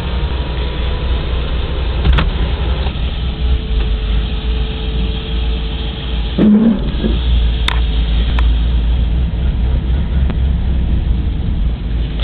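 Pontiac G8 GT's 6.0-litre V8, fitted with a 228/240 cam, non-DOD, American Racing headers and stock mufflers, running with a steady low exhaust rumble heard from the cabin with the windows down. The rumble dips briefly a little past halfway, then carries on.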